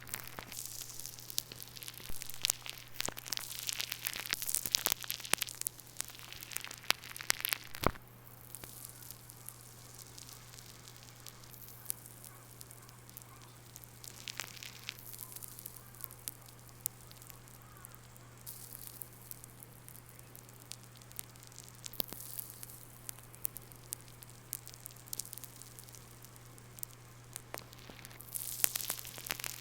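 Clay slime squeezed and worked around an iPhone microphone buried in it, giving a crackling and popping like a campfire. The crackle is dense for the first several seconds, thins to scattered clicks, and grows busier again near the end.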